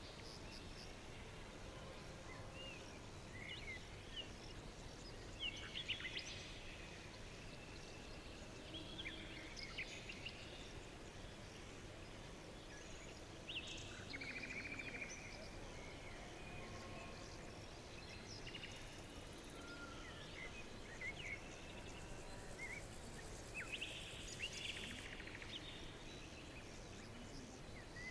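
Forest birdsong: several birds chirping and whistling in short, scattered phrases over a soft steady background hiss, with a faint high insect trill joining in about halfway through.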